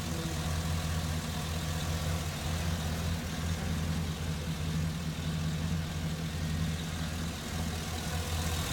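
2007 Cadillac Escalade ESV's 6.2-litre V8 idling steadily, a low even hum.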